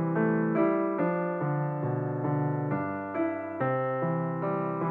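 Background music: solo piano, notes struck about twice a second, each ringing out before the next.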